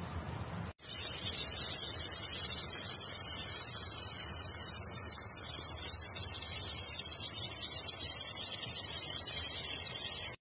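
Chopped tomatoes frying in a saj pan over barbecue coals: a loud, steady, high sizzling hiss that starts suddenly about a second in.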